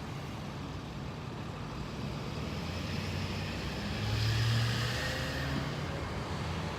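Tow truck's engine running as it moves off with the wrecked truck, a steady low rumble that grows louder about four seconds in.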